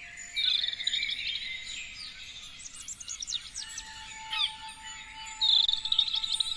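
Several songbirds chirping and singing in a dense chorus of quick, high notes, with a loud rapid trill about half a second in and another near the end.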